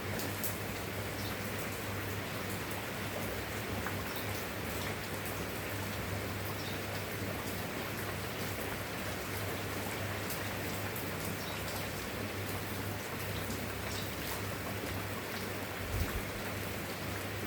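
Steady rain falling, an even hiss with scattered sharp drop ticks, over a constant low hum. A brief low thump comes near the end.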